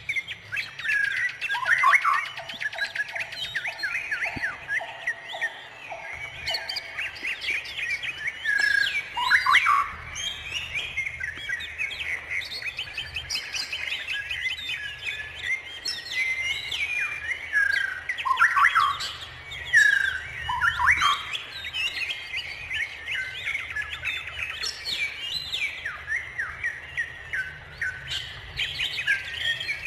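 A chorus of many wild birds singing and chirping at once, with overlapping trills, whistled glides and sharp calls. A lower, rapidly pulsing call repeats for several seconds from about two seconds in.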